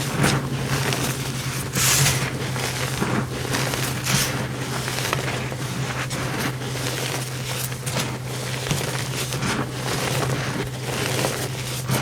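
Compressed powder (a cornstarch or gym-chalk reform) being crushed, in a run of crackly crunches with a few louder crunches spread through, over a steady low hum.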